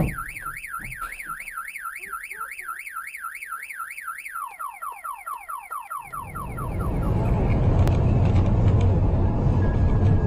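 Electronic car-alarm-style warble, a tone sweeping rapidly up and down about four to five times a second. It then breaks into slower falling chirps and fades out. From about six seconds in, a loud low rumble rises and takes over.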